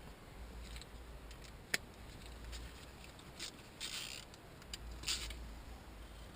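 Faint handling of tools: a sharp click a little under two seconds in, then a few short rustles and scrapes.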